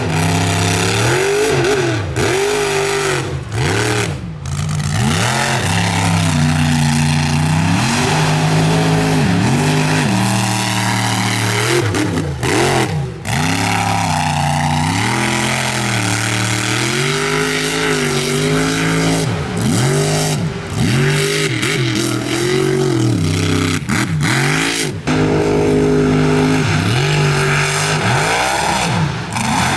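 Mud truck engine revving hard, its pitch rising and falling again and again, with short dips in between.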